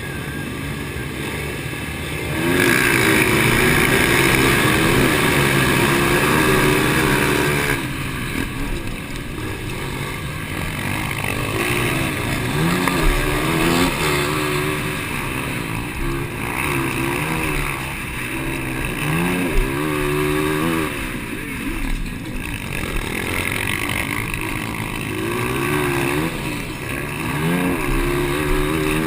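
Dirt bike engines of 200cc-class motocross bikes racing, revving up and dropping back over and over as riders work the throttle and shift. Loudest for several seconds near the start, then continuing with repeated rising and falling pitch.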